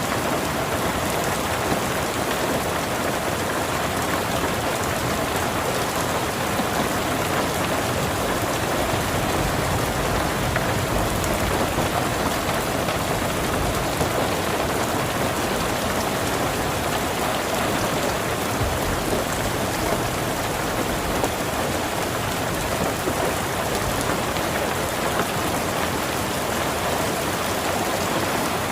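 Steady heavy rain falling and pattering on surfaces, a dense even hiss with scattered drop ticks.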